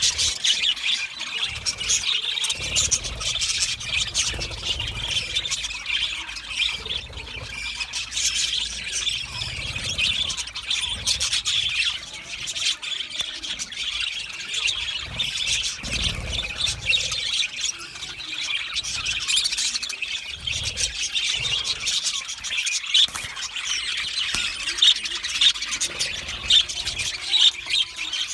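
A group of budgerigars chattering: a dense, continuous stream of short high chirps, warbles and squawks.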